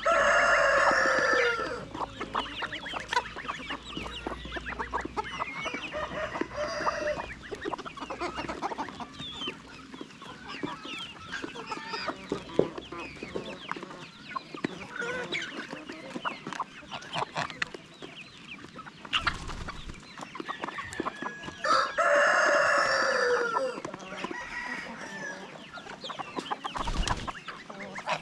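A rooster crows twice, once at the start and again about 22 seconds in, over steady clucking from a flock of chickens.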